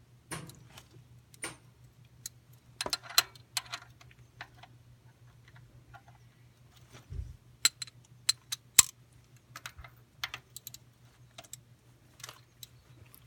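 Scattered metallic clicks and clinks of a socket wrench and sockets being handled and fitted onto a car's oil drain plug, with a cluster of sharp clinks about three seconds in and again near the middle.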